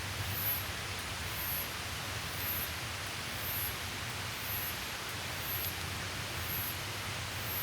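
Steady rushing outdoor ambience, with a single high-pitched insect chirp repeating about once a second.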